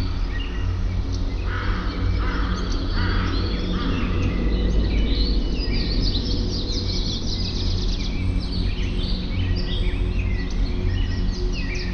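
Several birds singing and chirping at once, with many overlapping quick trills and twitters, over a steady low background rumble.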